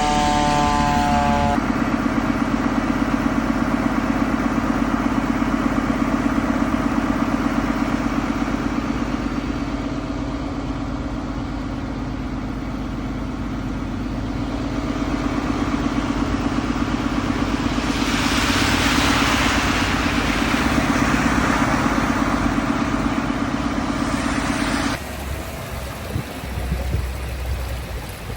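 A siren winding down in the first second or so, then a fire engine's diesel engine running steadily with a fast pulsing throb, with a hissing rush partway through. Near the end the engine sound stops and running water from the broken main is left.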